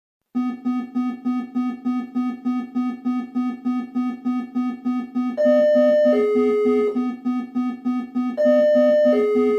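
Electronic emergency alarm: a low buzzing tone pulses rapidly, about three to four beats a second, starting after a brief silence. About five and a half seconds in, a two-tone high-low signal joins on top and sounds twice while the pulsing carries on.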